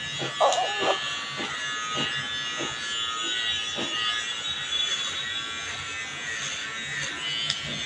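Electric hair trimmer running with a steady buzz as it cuts hair.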